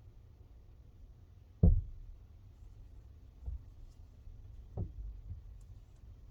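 A few dull thumps and knocks, the loudest about a second and a half in and softer ones later, over a low background hum.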